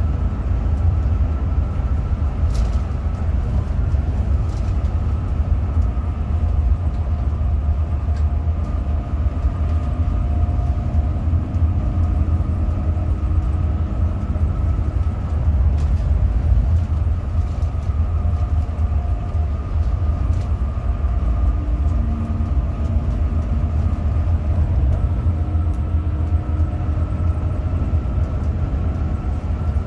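Hino RM 280 bus running on the road: a steady, heavy low rumble with faint engine and drivetrain tones that come and go.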